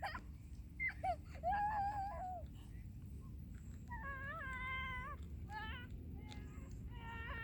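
Dog whining in several high, drawn-out whines, each about a second long.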